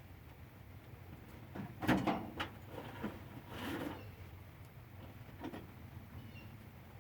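Metal tools being handled: a quick clatter of knocks about two seconds in, a longer scrape around three and a half seconds, and one more knock later.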